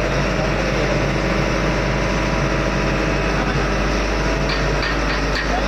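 Steady, loud drone of ship's engine-room machinery running. A few short light clicks come near the end.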